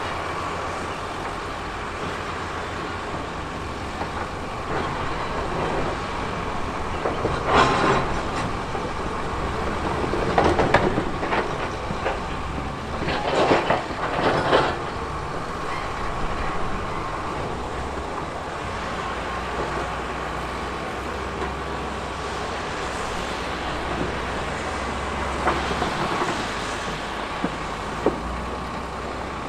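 Heavy earthmoving machinery, its diesel engine running steadily with a low rumble and a steady whine, broken by a handful of loud scraping, clattering bursts in the first half and once more near the end.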